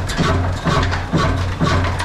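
Old black Ruston single-cylinder diesel engine running a flour mill, a steady beat of low thuds about twice a second over a constant low hum.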